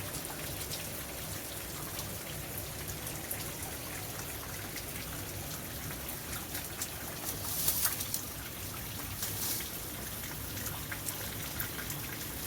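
Water trickling and splashing steadily, with a few louder splashes about eight and nine and a half seconds in.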